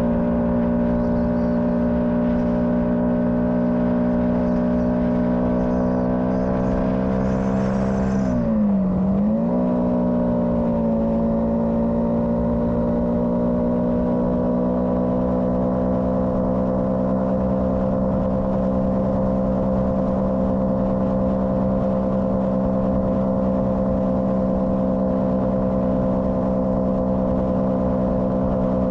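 Motorcycle engine running at steady revs with a steady drone. About nine seconds in, the pitch dips briefly and climbs back.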